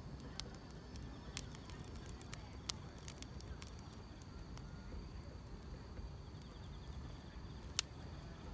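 Wood fire crackling over a low rumble, with a few sharp pops, the loudest near the end, while grass insects trill steadily in the background.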